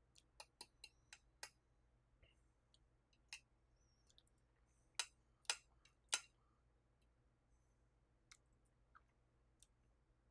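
Mostly quiet, with scattered short clicks from eating gyoza close to the microphone: a run of small ticks in the first second or so, then three louder clicks a little past the middle and a few faint ones near the end.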